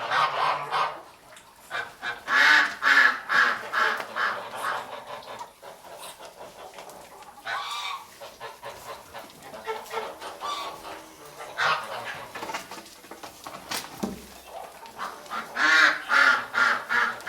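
Geese honking in repeated bursts of rapid calls, with short pauses between the bursts.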